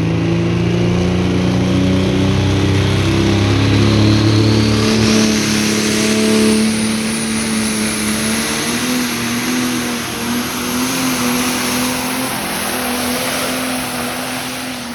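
New Holland pulling tractor's engine running hard under load during a pull. A high whine climbs steadily in pitch over several seconds, and the deep engine note thins out about five seconds in.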